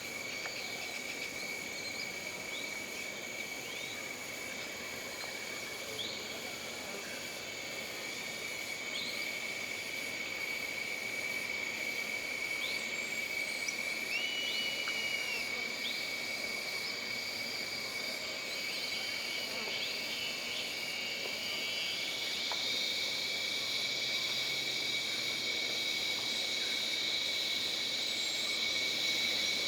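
Jungle ambience: a steady, high insect drone, with scattered short bird chirps over it. About three-quarters of the way through, a second, higher insect trill comes in louder.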